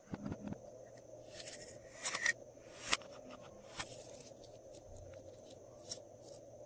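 Glossy slime being handled in plastic piping bags: irregular sticky clicks, short crinkles and scrapes, a few seconds apart. A faint steady high tone runs underneath.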